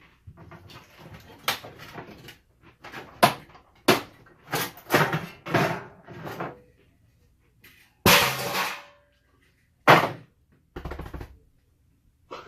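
Irregular knocks, clicks and clatter of hand tools and metal parts as an Xbox 360 is pried apart, with a longer harsh scrape about eight seconds in.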